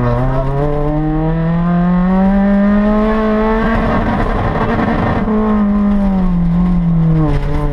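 Rally car's engine heard from inside the stripped, caged cabin, pulling steadily up through the revs for about three seconds, holding high through a rougher, noisier stretch, then the revs falling away as the driver lifts off near the end.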